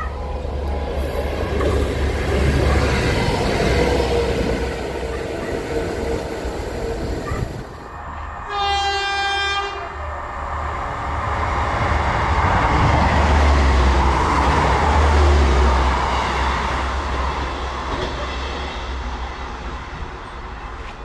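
A train horn sounds one steady note for just over a second, then a train passes, its rumble and wheel noise swelling and fading away. Before the horn there is a steady low rumble.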